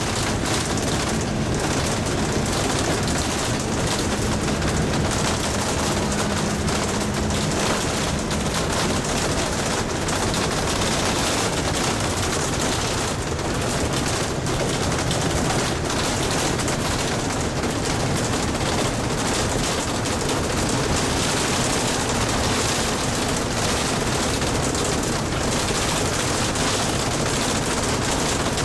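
Bus driving on a rough unpaved bauxite road: a continuous, dense rattle and clatter of the vehicle shaking over the bumpy surface, steady without a break.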